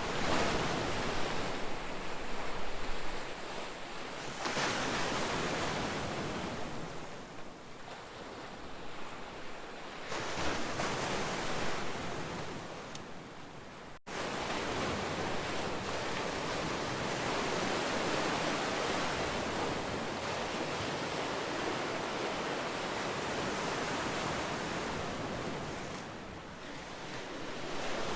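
Ocean waves washing onto the shore, the surf swelling and falling back in surges every few seconds. After a sudden break about halfway, the wash goes on more steadily.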